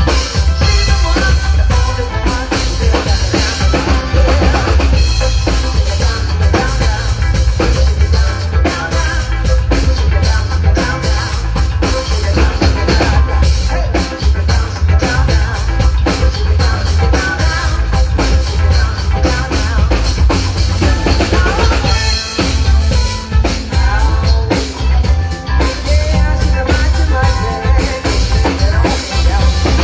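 A band playing, with a drum kit beating steadily over heavy bass.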